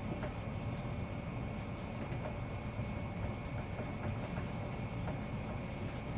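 Household refrigerator running with its door open: a steady low hum with a faint constant high whine, and a few light taps here and there.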